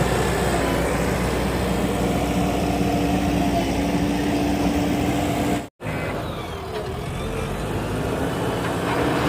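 JCB 3DX backhoe loader's diesel engine running steadily, cut off by a brief silent gap a little past halfway before it resumes.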